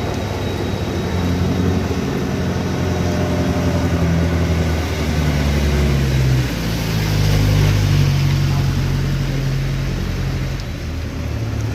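Heavy vehicle engine running, its pitch stepping up and down as the engine speed changes.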